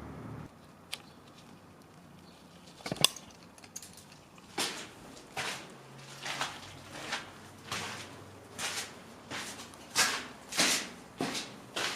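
A person's footsteps walking at a steady pace, about one and a half steps a second, beginning about four seconds in. A single sharp knock comes just before them, about three seconds in.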